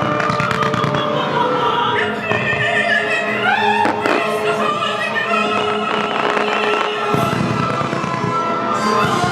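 Music with a singing voice accompanying a fireworks display, with fireworks bursting among it; one sharp bang stands out about four seconds in.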